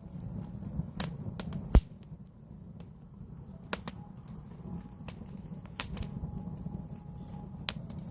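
Firewood burning in a wood stove: a steady low rush of the fire with sharp crackles and pops scattered through, the loudest pop a little under two seconds in.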